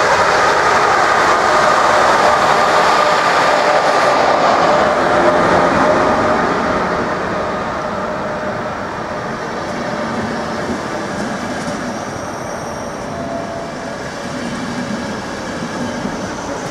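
EuroCity passenger train rolling along the station track: wheels on the rails with a steady whine, getting gradually quieter after about six seconds.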